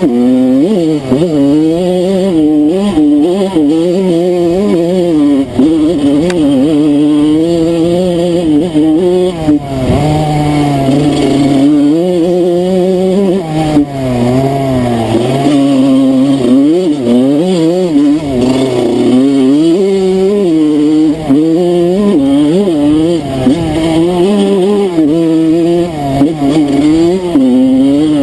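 Enduro dirt bike engine being ridden hard off-road, its pitch rising and falling every second or so as the throttle is opened and closed.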